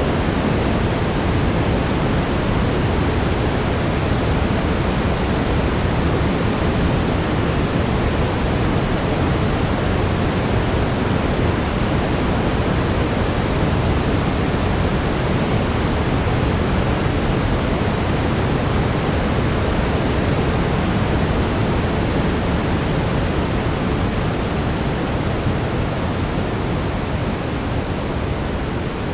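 Steady brown noise: an even, deep hiss with most of its weight in the low end. It eases down slightly in the last few seconds.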